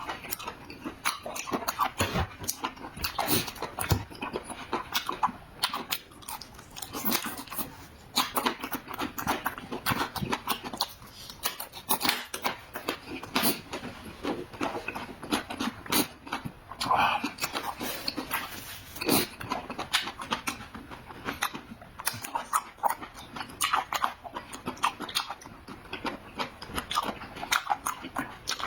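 A person eating close to the microphone, chewing and smacking food with a steady run of wet clicks and mouth noises.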